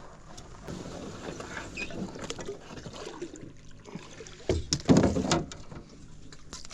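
A canoe being shifted in the water: paddle splashing and knocks against the hull, loudest in a cluster of knocks and splashing about four and a half to five and a half seconds in.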